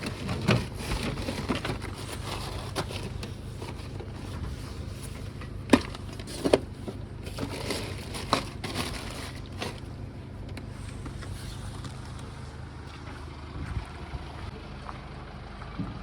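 Car engine idling steadily, being warmed up after a cold night, with scattered knocks and clatter of things being handled, the sharpest about six seconds in.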